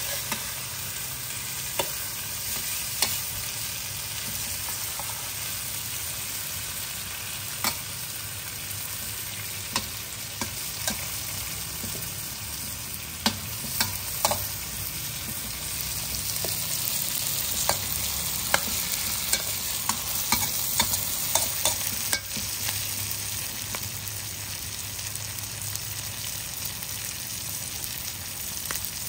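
Prawns frying in oil and curry paste in a metal wok, a steady sizzle, with a metal spatula scraping and clinking against the wok as they are stirred. The stirring knocks come thickest a little past halfway.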